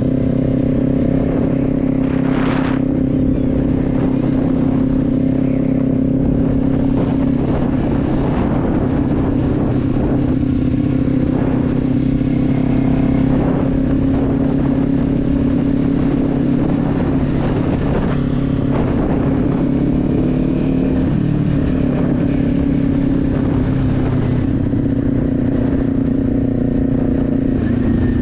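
Motorcycle engine running at a steady cruise, recorded on the moving bike with wind rushing over the microphone. The engine note shifts briefly twice, about a quarter of the way in and again about three-quarters through.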